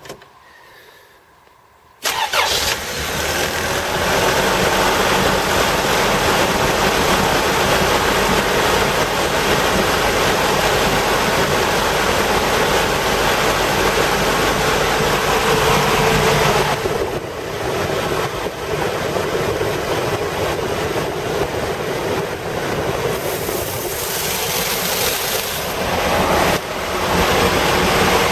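Toyota Hiace petrol engine starting up about two seconds in, then running steadily. The level dips briefly twice in the second half.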